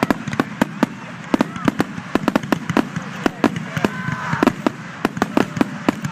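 Fireworks grand finale: a rapid barrage of aerial shell bursts, several sharp bangs a second with little pause between them.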